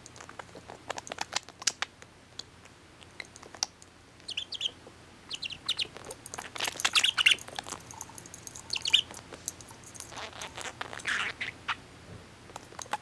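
Young pet budgerigar chattering: quick clicks for the first couple of seconds, then bursts of high chirps and warbled calls.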